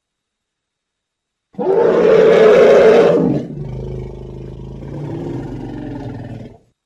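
An elephant calling: a loud, harsh roar of about two seconds, then a lower, quieter drawn-out call of about three seconds that cuts off suddenly.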